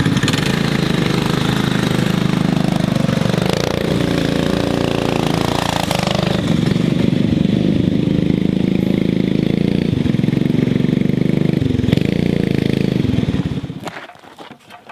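Coleman CT200U mini bike's small single-cylinder four-stroke engine running under load while riding, its pitch rising and falling with the throttle. The sound stops abruptly near the end.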